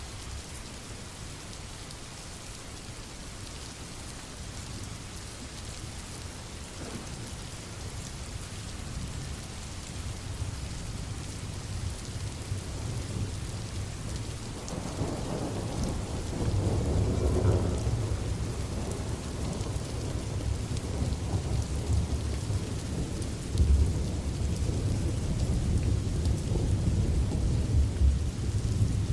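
Steady rain falling, with a low rumble of thunder that builds about halfway through and rolls on, growing louder toward the end.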